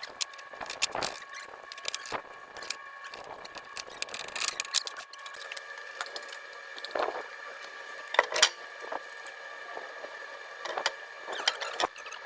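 Scattered clicks, taps and knocks of hand work on pipe fittings, one louder knock past the middle, over a steady high-pitched hum.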